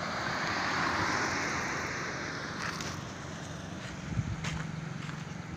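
Highway traffic: a vehicle passes, its rushing road noise swelling about a second in and fading by the middle, followed by a low steady engine hum.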